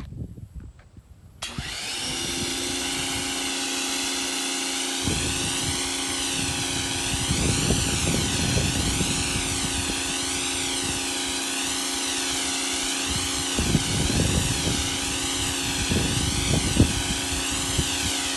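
Pressure washer starting to spray about a second and a half in, with the soap bottle attachment on the wand. A steady pump and motor hum sits under a loud hissing jet whose tone sweeps up and down.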